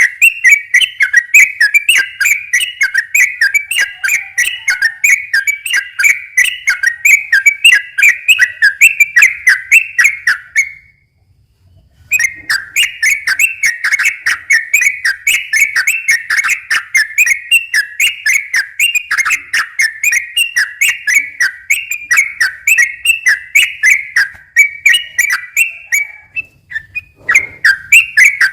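Yellow-vented bulbul (trucukan) singing a long, rapid run of chattering whistled notes, several a second. There is a pause of about a second near the middle and a short break near the end.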